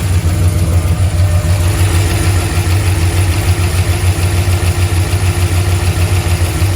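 Car engine idling steadily, with a valve-lifter tick that the owner thinks may be fading.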